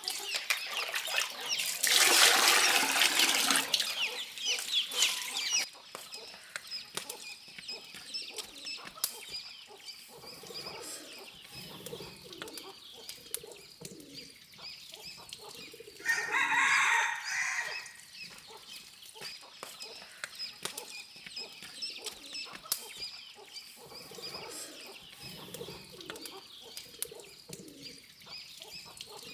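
Farm chickens clucking, with a rooster crowing once a little past halfway. Near the start a loud, noisy rush lasts about four seconds.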